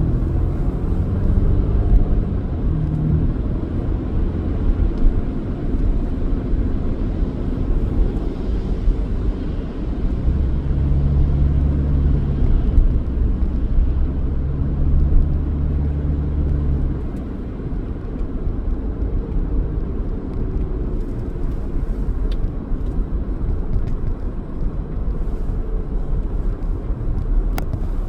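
Car driving on city streets: steady low engine and road rumble, with a stronger hum for several seconds midway.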